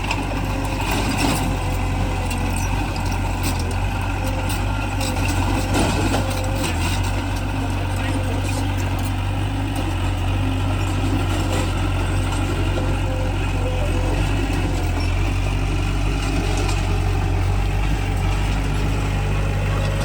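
Heavy construction machine's diesel engine running steadily with a deep low hum, with a few sharp metallic clanks in the first seconds.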